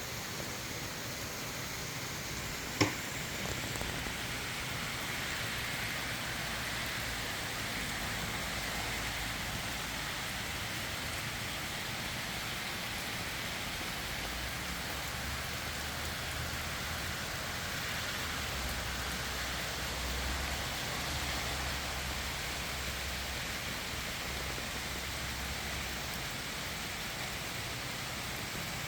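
Rain falling steadily, a constant hiss of drops, with one sharp knock about three seconds in.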